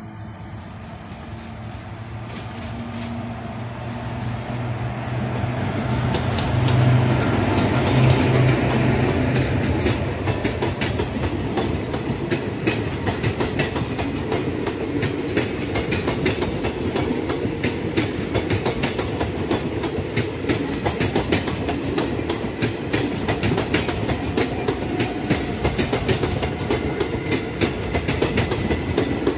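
A WAP-4 electric locomotive's hum grows as it approaches and passes, loudest about eight seconds in. Its passenger coaches then roll past, the wheels clattering steadily over the rail joints in a fast clickety-clack.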